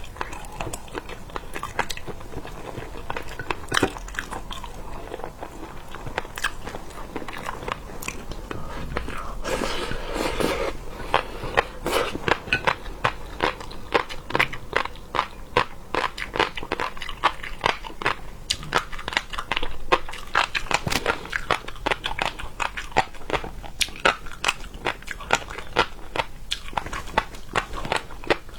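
A person biting and chewing seafood, heard up close: a steady run of crunchy, wet mouth clicks, with a brief noisier stretch about ten seconds in.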